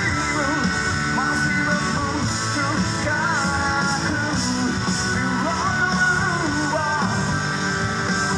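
Rock band playing live, with guitar and singing over a steady beat.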